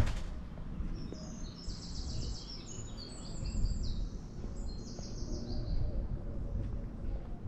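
A songbird singing a run of rapid, high trilled phrases for several seconds, over a steady low outdoor rumble, with a sharp click at the very start.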